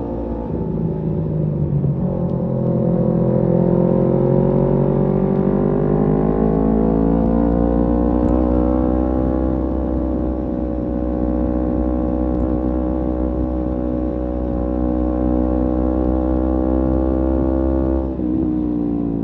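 Kawasaki Z250 motorcycle engine running through an aftermarket SeaPro exhaust while riding: the pitch dips just after the start, climbs steadily over a few seconds as the bike accelerates, holds, then drops sharply near the end as the throttle is closed. A steady low rumble runs underneath.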